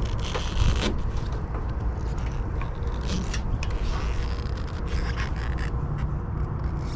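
Scraping, rattling and clicking of hands working stuck old wiring loose inside a sheet-metal HVAC unit, over a steady low rumble.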